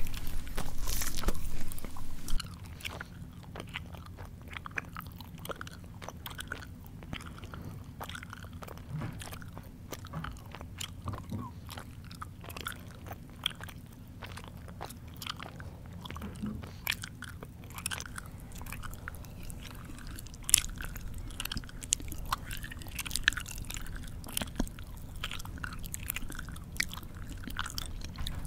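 Close-up mouth chewing with biting and crunching: loud, dense crunching for about the first two seconds, then quieter chewing with scattered short smacks and clicks.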